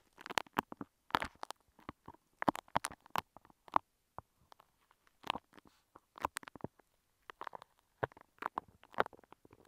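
Bumpy bead-textured clay being handled and squished right against an earphone microphone, giving irregular clusters of small crackles and clicks.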